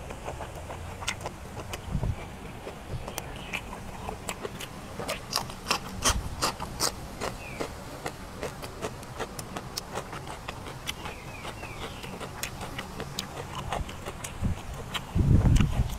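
Close-up chewing of squid picked up in the mouth: a run of short wet mouth clicks and smacks, with a few dull low thumps, the loudest near the end.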